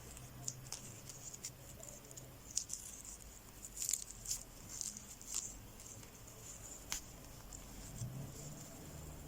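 Faint household handling sounds: scattered light taps, clicks and soft rustles, busiest about four to five seconds in, with one sharp tick near the seven-second mark.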